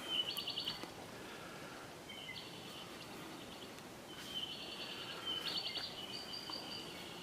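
'Apapane (Hawaiian honeycreepers) calling: short rattling trills and chirps in three bursts, the longest starting about four seconds in, over a quiet forest background.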